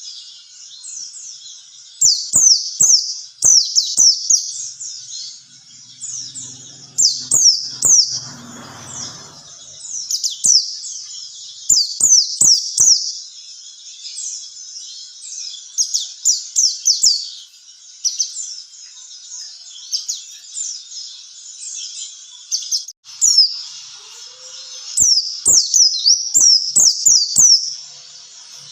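Pleci (white-eye, Zosterops) singing: bursts of rapid, high chirping notes, each sliding down in pitch, strung into phrases with short pauses between them.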